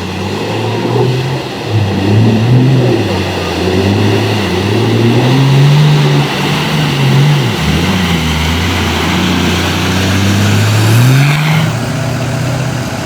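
A car engine being revved, its pitch rising and falling repeatedly under load, with a dip about two-thirds through and a final climb before it settles near the end.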